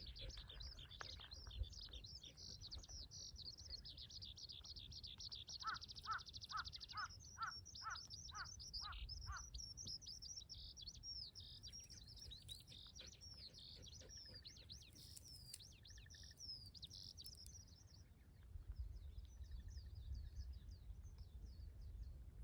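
Wild birds singing in a dense chorus of high chirps and fast trills, with one bird giving a run of about nine evenly spaced, lower repeated notes partway through. The song thins out near the end.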